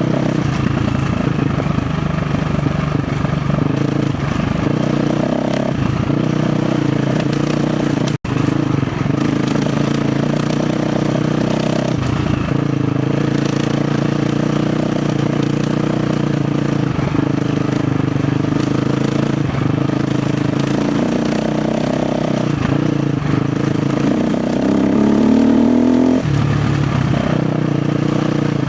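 KTM 350 XC-F dirt bike's single-cylinder four-stroke engine running under changing throttle on a rough trail. The sound cuts out for an instant about eight seconds in, and near the end the revs climb, then drop off sharply.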